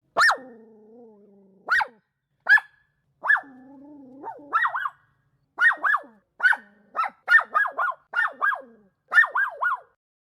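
An animal giving short, sharp, high-pitched calls in quick series, mostly in pairs and threes, with a low drawn-out sound under the first calls.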